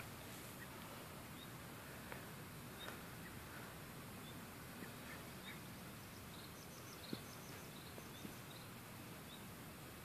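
Faint meadow ambience: a steady hiss with small birds chirping short high notes, in a quick run during the second half, and a few soft ticks, the clearest about seven seconds in.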